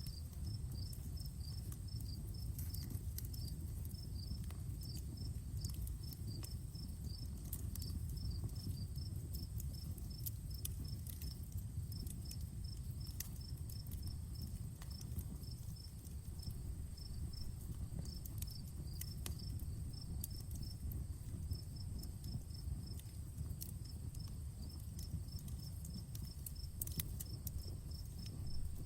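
Outdoor wood campfire crackling with scattered sharp pops over a low steady rumble, while crickets chirp in quick, evenly repeated pulses and a steady high tone runs underneath.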